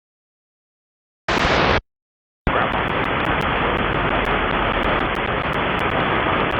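Static hiss from an airband radio received on an RTL-SDR, with no voice. The squelch cuts the audio off completely and opens twice: a short burst of hiss about a second in, then steady hiss from about two and a half seconds on.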